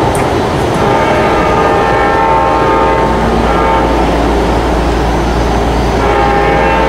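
A diesel locomotive's five-chime K5LA air horn sounding a long blast, then a second blast starting near the end, over the low rumble of the passing train.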